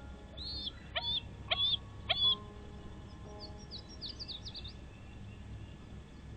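Bald eagle calling: four loud, high, thin calls about half a second apart, each dropping sharply at the end, then a quick run of fainter, higher chittering notes.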